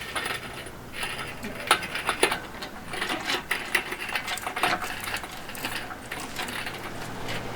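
Irregular metallic clinking and rattling from an engine hoist's chains and hardware as a suspended engine is eased along.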